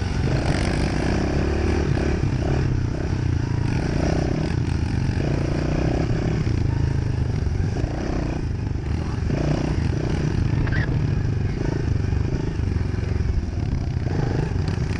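Dirt bike engine running as the bike is ridden, its note rising and dropping repeatedly with the throttle.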